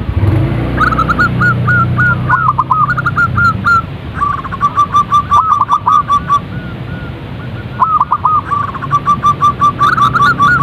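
Zebra doves cooing: phrases of quick, rippling coos repeat several times, with a long even run of notes in the middle.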